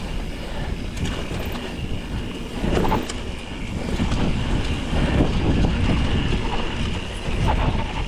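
Mountain bike riding down a rutted dirt trail: a steady rumble of wind on the microphone and tyres on dirt, with the bike knocking and rattling over bumps.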